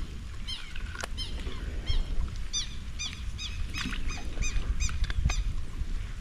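Birds calling: a quick run of short, arched chirping notes, several a second, over a low rumble, with a few sharp clicks.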